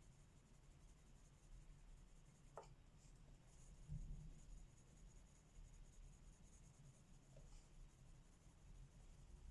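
Faint scratching of colouring on paper, soft and quiet, with a brief squeak a little before the middle and a soft low bump about four seconds in.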